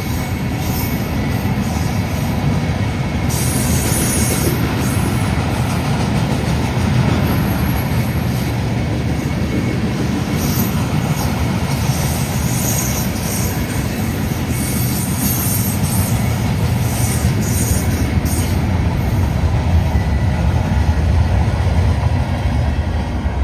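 Loaded freight train of steel-slab cars rolling past close by: a steady heavy rumble of wheels on rail, with stretches of high-pitched wheel squeal at times.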